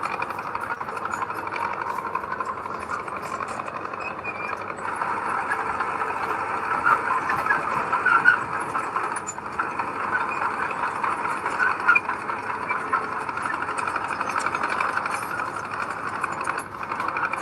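Heavy diesel earthmoving machinery running steadily, with a few brief louder peaks about seven, eight and twelve seconds in.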